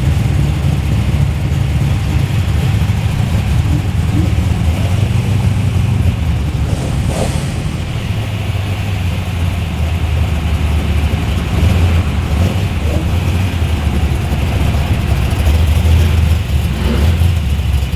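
Muscle car V8 engine running close by, a steady low rumble whose note shifts a little every few seconds. A brief sharper noise cuts across it about seven seconds in.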